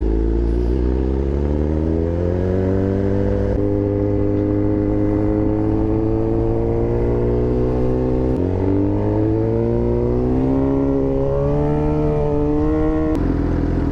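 A 2022 Suzuki GSX-R 750 inline-four running through a Black Widow full exhaust with the cat deleted, under way and pulling through the gears. Its note rises steadily and drops at each of three upshifts, about 3 s, 8 s and 13 s in.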